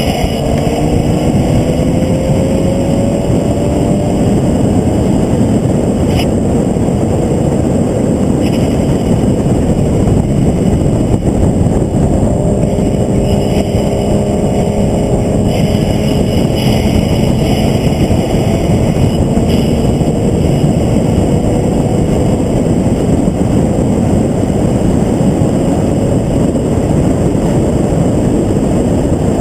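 Onboard sound of a vehicle lapping a race track: loud, steady wind and road noise, with the engine's tone rising in pitch again and again under acceleration.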